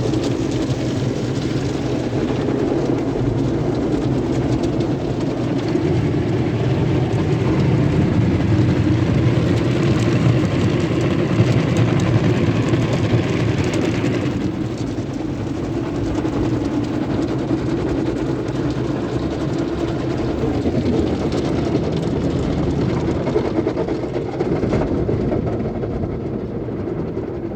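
Automatic car wash tunnel equipment running: a steady, loud mechanical rumble with the rush of spraying water and spinning machinery. It swells slightly midway and eases off near the end.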